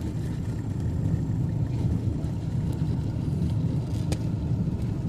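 Car driving, heard from inside the cabin: a steady low rumble of engine and tyres on the road, with a faint tick about four seconds in.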